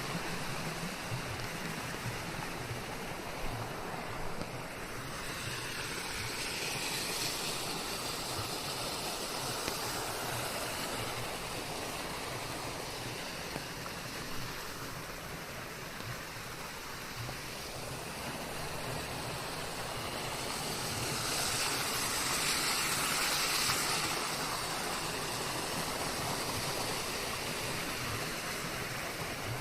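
Steady rain, a dense even hiss, swelling louder twice: about five seconds in and again around twenty-two seconds.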